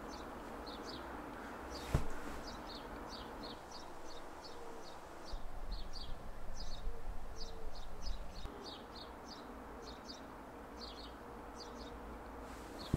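Small birds chirping again and again, short high chirps often in pairs, over a low steady background rumble. A single click sounds about two seconds in.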